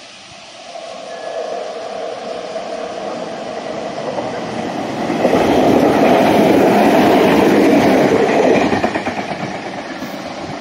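A Meitetsu Nagoya Main Line electric train passing on the rails. It grows louder over the first five seconds, is loudest from about five to nine seconds in, then fades away.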